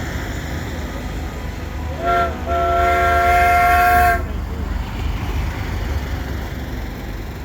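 Semi truck's multi-tone air horn: a short blast about two seconds in, then a longer held chord of about a second and a half that cuts off sharply. A steady low engine rumble runs underneath.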